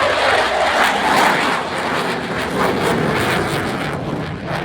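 Twin General Electric F414 afterburning turbofans of an F/A-18F Super Hornet in a display pass: a loud jet rush with crackle, slowly fading.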